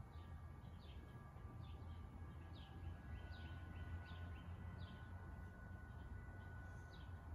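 Faint bird chirping over and over, short downward-sliding chirps about one and a half a second, over a low steady hum.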